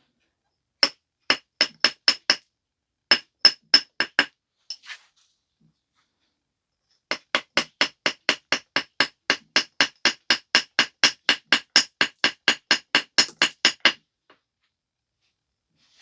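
Flintknapping percussion: a tool striking the edge of a stone biface with sharp, ringing clicks. There is a short group of about six quick strikes, then about five more. After a pause comes a long, even run of light strikes at about four a second.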